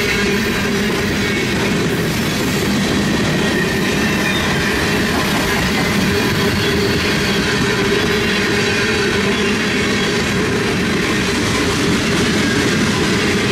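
Long freight train rolling past: steel wheels running on the rails in a steady, even rumble, with faint high tones from the wheels.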